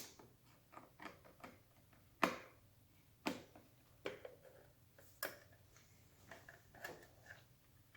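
Scattered light clicks and small plastic and metal knocks from hands working a motorcycle tail light as its lens is taken off. Several sharper clicks stand out, about a second apart.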